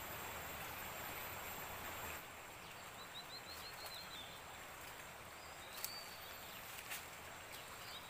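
A small bird gives a quick run of short, high chirps about three seconds in, and a few more near six seconds, over a steady forest hiss. A thin, very high insect whine stops about two seconds in.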